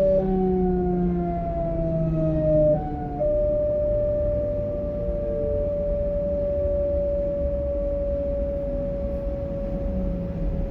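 Class 425 electric multiple unit's traction inverter and motor whine, several tones falling in pitch as the train slows. The tones jump in pitch twice in the first three seconds, then settle into one tone that keeps sliding slowly down.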